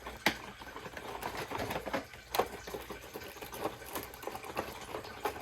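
A cardboard model-kit box being opened and handled: rustling with many small clicks and rattles. There are two sharper snaps, one just after the start and one about two and a half seconds in.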